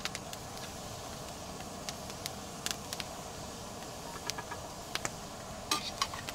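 A portable gas camping stove burner hissing steadily under a kettle, with scattered small clicks and ticks.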